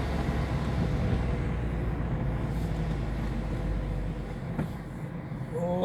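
Car engine and road noise while driving: a steady low rumble that eases off near the end, with a single sharp click about four and a half seconds in.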